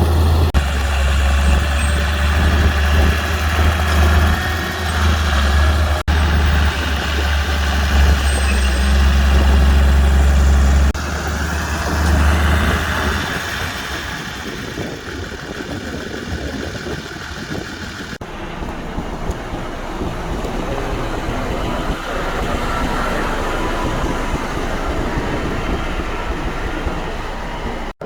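Diesel engines of heavy earthmoving machines (bulldozer and dump truck) running. A deep, loud engine drone for the first half, then a quieter mechanical rumble.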